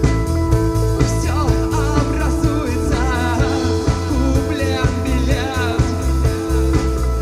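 Live rock band playing loudly: drums and bass on a steady beat under held guitar chords, with a wavering lead melody from about a second in until about five and a half seconds.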